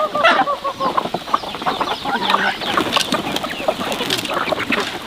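Chickens clucking: a quick run of repeated short calls in the first second, then scattered short clucks and chirps from the flock.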